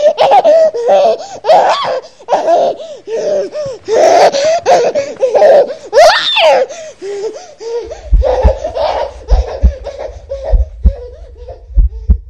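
A baby laughing in repeated high-pitched giggling bursts, with a high rising squeal about six seconds in. From about eight seconds a series of low thumps starts underneath the laughter.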